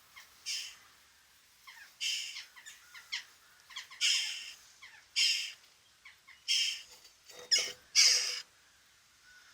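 Crow nestlings in a chimney nest begging: a series of about seven harsh, rasping calls with thinner squeaks between them.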